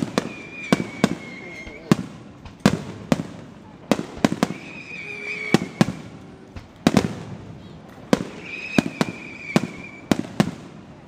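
Aerial firework shells bursting close by: a rapid, irregular series of sharp booms, each with a short echoing tail. A thin, high, steady whistle about a second long sounds three times between the bangs.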